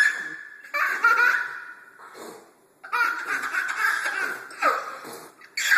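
Two young boys laughing hard in several long fits, with short breaks between them.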